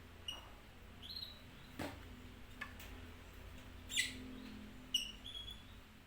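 Several short, high chirps from small birds, scattered through a few seconds, with a few sharp clicks or taps, one about two seconds in and two more near four and five seconds.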